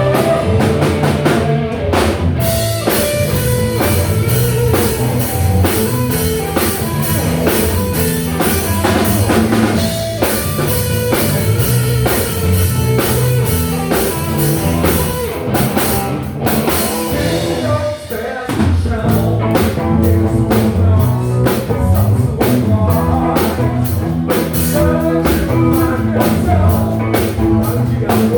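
A rock band playing live, with a drum kit keeping a steady beat under guitars. The band drops out briefly about 18 seconds in, then comes back in.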